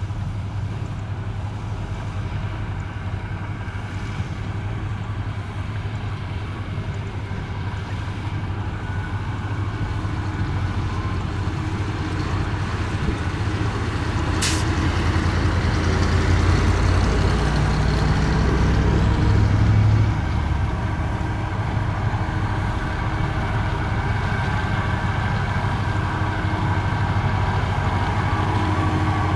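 Komatsu bulldozer's diesel engine running under load as it pushes sand, a steady low drone that grows louder through the middle and drops back about two-thirds of the way in. There is one brief sharp noise near the middle.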